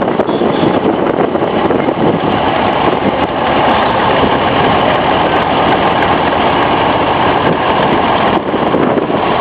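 Locomotive engine running steadily while the engine pushes a caboose.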